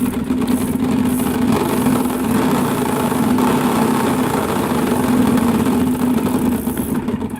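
A bottle flapping against the spokes of an upturned bicycle's spinning wheel, a steady, very loud motorbike-like buzz.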